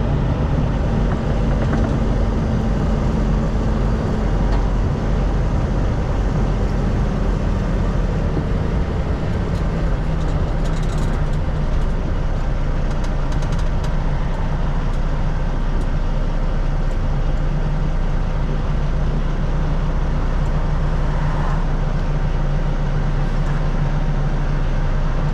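Semi truck's diesel engine running at low speed, heard from inside the cab as a steady drone whose pitch settles slightly lower a few seconds in.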